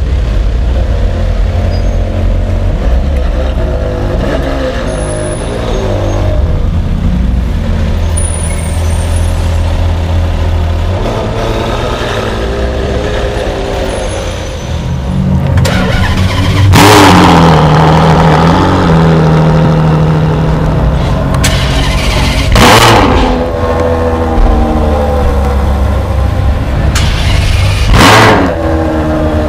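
Ferrari 599 SA Aperta's V12 engine running at low speed, then three loud blips of the throttle, about halfway through, a few seconds later and near the end, each dying away with a falling pitch.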